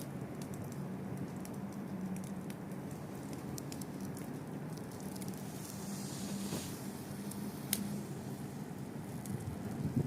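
Wood fire burning with a steady hiss and scattered sharp crackles and pops, one louder pop near the end.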